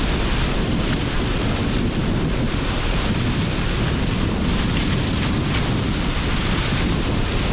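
Strong wind blowing over sea surf: a steady, loud rush with a deep rumble, and wind buffeting the microphone.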